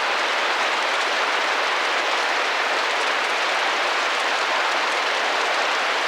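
Steady rain pattering against a window pane, an even hiss of many small drops with no breaks or changes.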